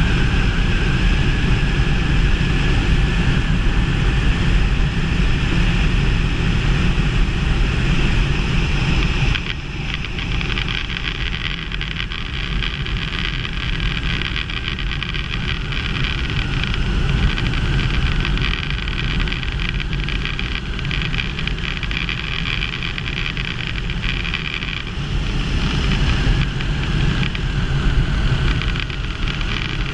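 Quik GT450 ultralight trike engine running steadily in flight, with wind noise on the microphone. The sound drops slightly about nine seconds in and swells again near the end.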